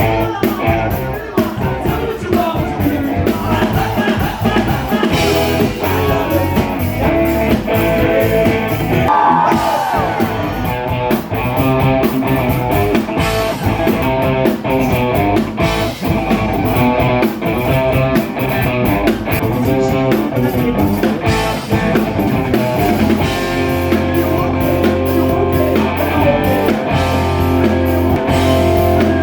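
Rock music from a band: guitar and drum kit with a singing voice.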